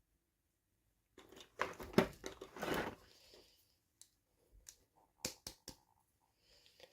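Toy packaging being handled and opened: about two seconds of crinkling and rustling, then several sharp separate clicks.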